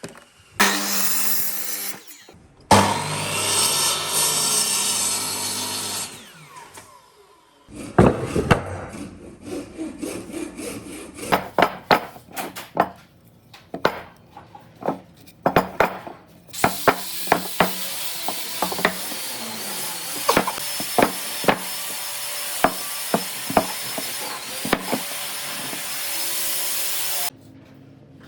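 Wood being sawn and worked with tools, in several abrupt stretches. First comes a loud steady run with a low hum, then a series of sharp knocks, then a long steady run with more knocks over it that cuts off suddenly near the end.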